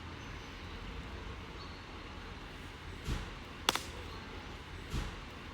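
Dry firewood being handled and broken: a dull knock, a sharp crack and another knock in the second half, over a steady outdoor hiss.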